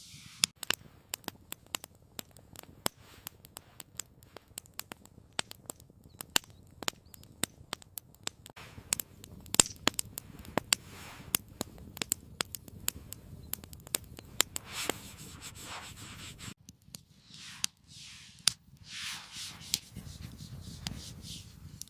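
Wood fire crackling, with many irregular sharp pops and snaps. About three-quarters of the way through the pops thin out and soft rushing swells come in.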